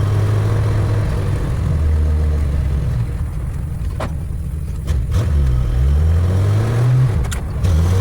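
1962 Dodge Lancer's slant-six engine running while driving: steady at first, the revs drop about three seconds in and climb again from about five and a half seconds, with a few sharp clicks in between. The owner says the throttle is all-or-nothing and needs adjusting.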